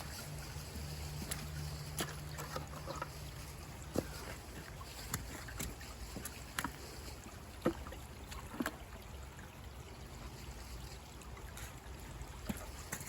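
Faint trickling water with scattered light clicks and knocks, over a steady low hum.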